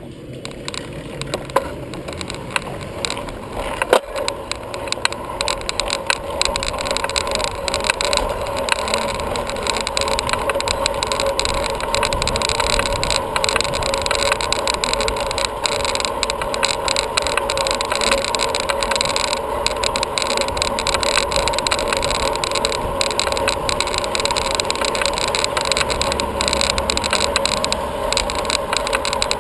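Wind and tyre noise of a bicycle being ridden, with a few sharp knocks in the first four seconds. The noise grows louder over the first several seconds, then holds steady.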